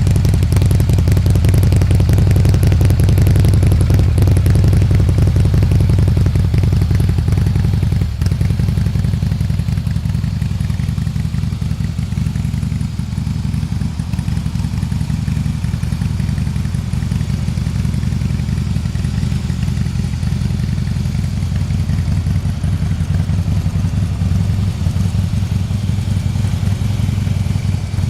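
Harley-Davidson FXSBSE V-twin idling steadily through a Jekill & Hyde valved aftermarket exhaust, with a deep, lumpy beat. About eight seconds in the upper rasp drops away suddenly and the exhaust sounds more muffled.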